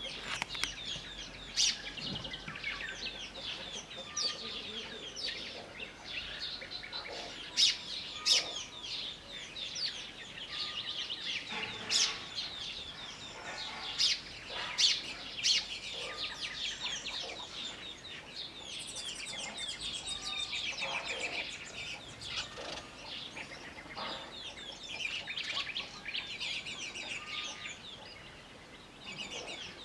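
Sparrows chirping and baby chicks peeping together: a dense, continuous chatter of short high calls, with a few louder sharp calls standing out.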